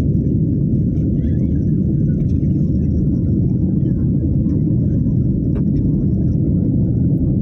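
Steady low rumble of an airliner's cabin noise, from the engines and the airflow around the aircraft, even throughout.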